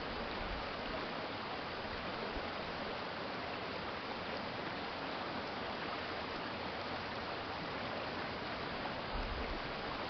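Water of an urban stream flowing steadily, a continuous even rush, with a brief low rumble about nine seconds in.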